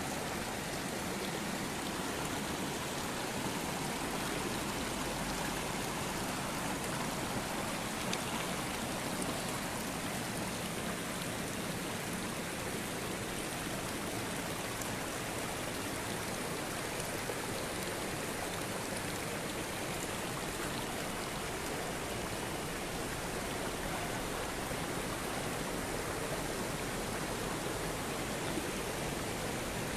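Floodwater from overflowing drains rushing fast along a road, a steady, even rush.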